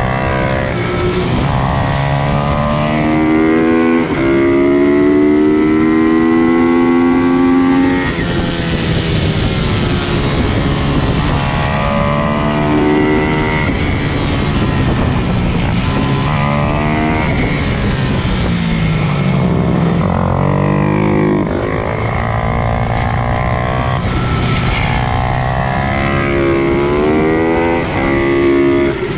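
Several pit bikes racing, their small motorcycle engines revving hard. Each engine's pitch climbs for a few seconds, then drops as the throttle comes off, and one bike's engine overlaps another's.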